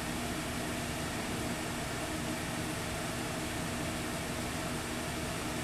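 Steady hiss with a faint low hum underneath, unchanging throughout, like machinery or ventilation running.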